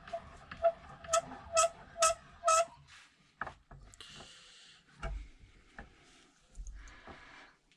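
Metal hand tool working on a motorcycle brake caliper: five evenly spaced, ringing metallic clicks about two a second, then a short hiss a little after the middle and another near the end.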